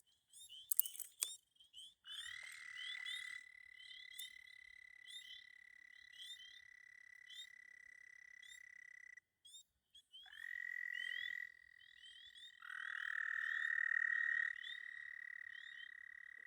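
Breeding chorus of frogs: long, steady trills that overlap and swell, the loudest running a couple of seconds past the middle, with many short rising chirps above them. There are a few sharp clicks in the first second or so.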